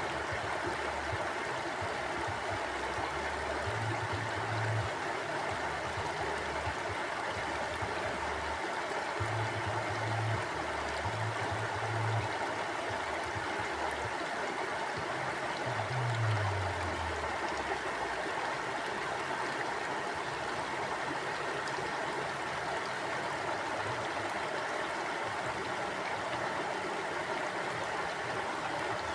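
A river flowing steadily: an even rush of running water, with a few brief low surges.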